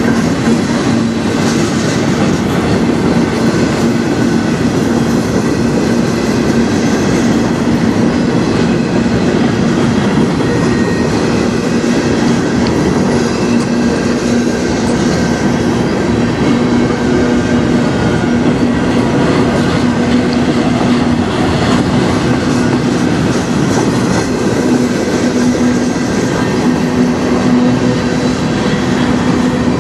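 Freight train gondola cars rolling past, a steady rumble of steel wheels on rail with a low steady hum running under it.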